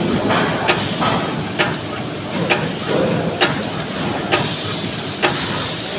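High-speed ceiling fan insulation-paper machine running, with a sharp clack at each stroke about every second over a steady mechanical whir.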